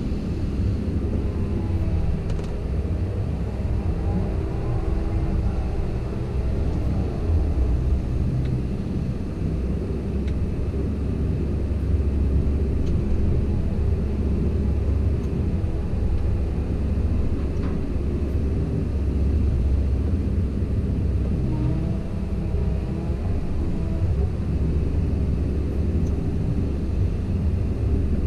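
Komatsu PC170LC-10 hydraulic excavator working: the diesel engine runs with a steady low drone while a hydraulic whine rises and falls as the boom and arm move.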